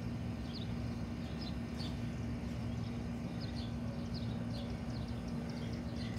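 Outdoor ambience: a bird chirping repeatedly, about twice a second, over a steady low hum.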